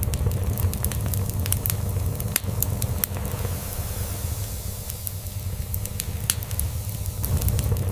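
Log fire crackling, with scattered sharp pops, over a continuous low, pulsing cat purr.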